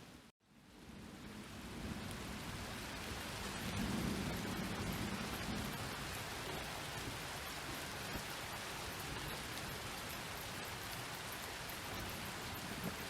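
Steady rain pattering on a surface, with a low rumble of distant thunder swelling about four seconds in. Just after the start the sound cuts out for a moment, then fades back in.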